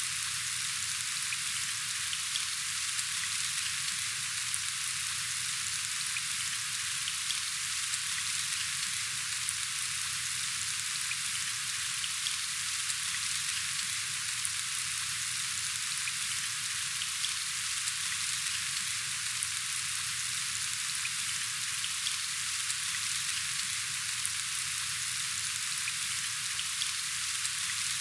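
Steady rain falling: an even hiss with scattered faint drop ticks, unchanging throughout.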